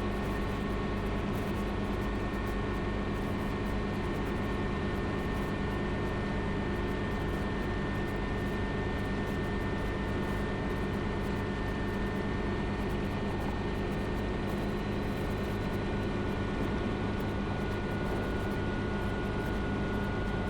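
Schweizer 300 helicopter's piston engine and rotors running steadily in flight, heard inside the cockpit as an even drone with a hiss over it.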